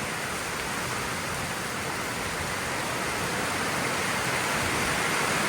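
Heavy thunderstorm rain pouring down in a steady, even hiss that grows slightly louder.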